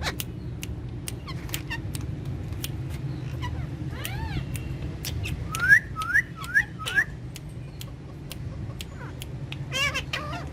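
Parakeets calling: scattered short chirps and clicks, a drawn-out arching call about four seconds in, then four quick rising squawks, the loudest part, and a burst of chatter near the end, over a steady low hum.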